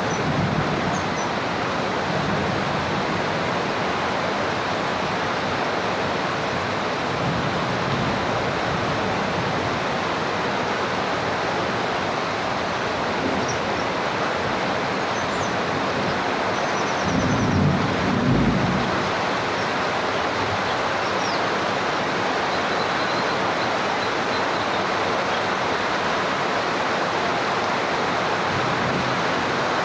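Steady heavy rain hissing, with low rolls of thunder, the loudest rumble about seventeen to nineteen seconds in.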